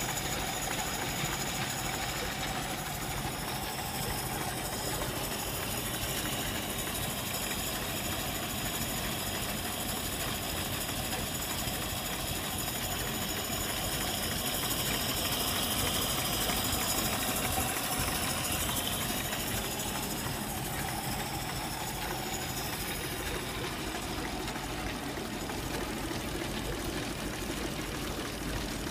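A 1913 Mors 3.3-litre four-cylinder sleeve-valve ("sans soupape") engine idling steadily.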